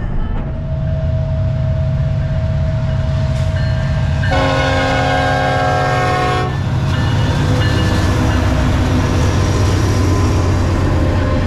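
Norfolk Southern diesel-hauled freight train passing close by with a steady low rumble of locomotive engines and wheels. About four seconds in, the locomotive's air horn sounds one chord blast lasting about two seconds.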